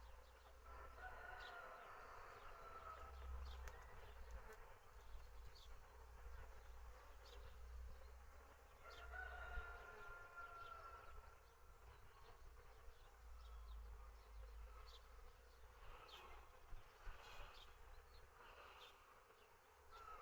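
Bees buzzing faintly, with a rooster crowing twice: once about a second in and again about nine seconds in.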